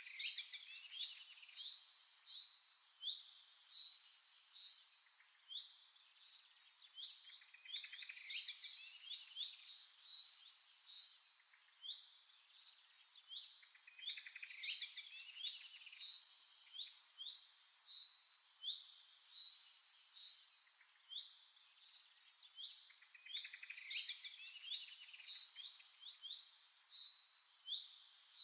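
Birdsong: a bird singing the same phrase of quick chirps and fast trills over and over, a few seconds of song then a short pause, about every six seconds.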